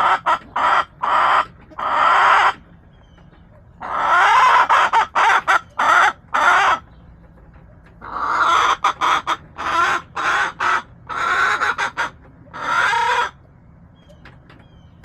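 Backyard hens clucking and cackling loudly in runs of rapid repeated calls, three bouts separated by short pauses, dying down near the end.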